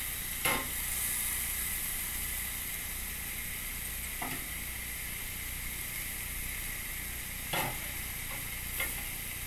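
Steak, green peppers and onions sizzling steadily on a cast iron griddle, with a few short clicks and scrapes of metal tongs against the food and the griddle.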